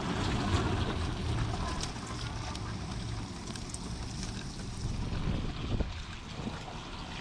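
Strong storm wind buffeting the microphone: a steady, low rumbling rush with no speech.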